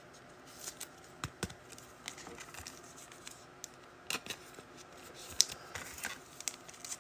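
Faint, scattered clicks and ticks of trading cards and their packaging being handled on a table.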